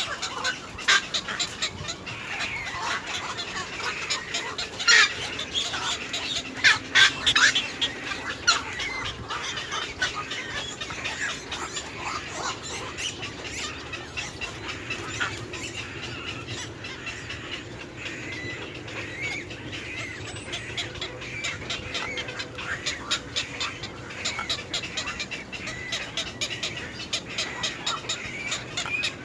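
Birds calling, a dense run of short chirps and clicks throughout, with louder calls about five seconds in and again around seven to eight seconds.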